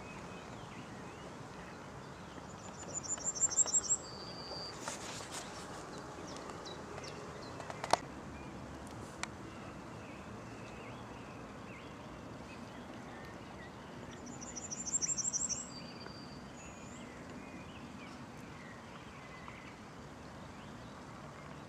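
Outdoor ambience with a small songbird singing twice, about twelve seconds apart. Each song is a fast, very high trill of repeated notes followed by one short lower note, over a steady background hum. There is a single sharp click about eight seconds in.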